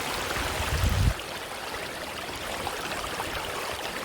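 River water running over rocks, a steady rushing. About a second in, a brief low rumble rises over it and stops.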